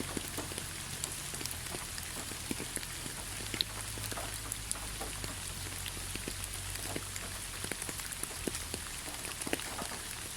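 Heavy rain falling steadily: an even hiss with many scattered individual drops pattering through it.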